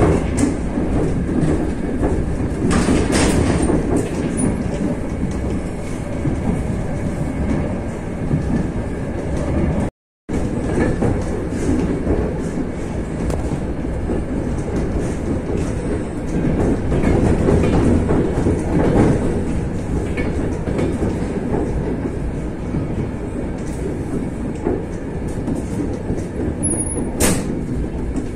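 Commuter train running, heard from inside the carriage: a steady rumble of wheels on the rails with some clickety-clack. The sound cuts out completely for a moment about ten seconds in.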